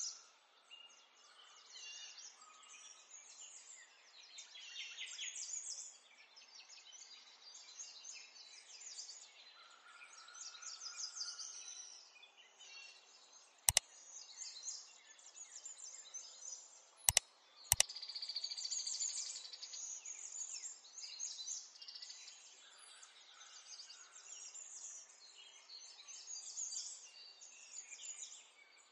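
Faint, continuous chirping of small birds. Three sharp clicks come a little past the middle, the last two close together.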